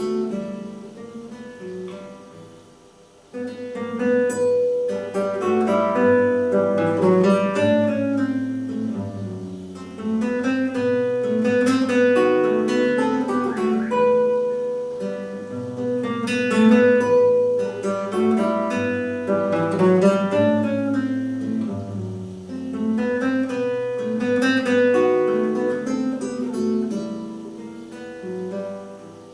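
Solo instrumental performance of a slow, lyrical classical piece: a sustained melody over bass notes, in phrases that swell and fade, quietest about three seconds in and again near the end.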